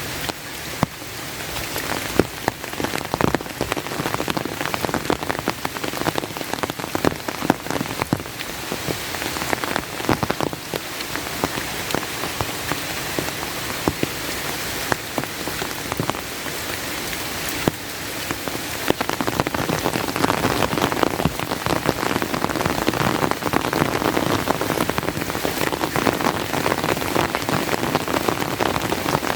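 Steady rain falling, with many single drops striking close by as sharp ticks; it grows somewhat heavier and louder about two-thirds of the way in.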